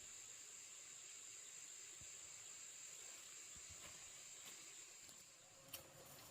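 Faint, steady, high-pitched insect chorus, with a sharp click near the end.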